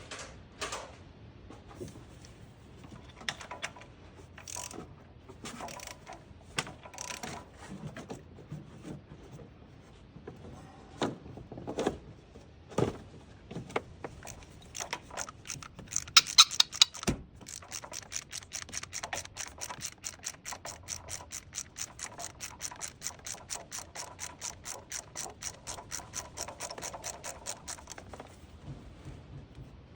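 Hand ratchet and socket working a bolt. Irregular tool clicks and clanks come first, then a few loud clicks past the middle, then about ten seconds of steady fast ratchet clicking, about four or five clicks a second, as the bolt is run out. The clicking stops near the end.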